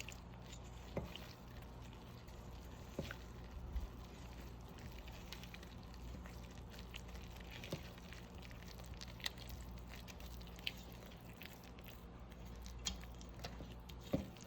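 Faint, scattered small clicks and taps, about one every second or so, over a low steady hum.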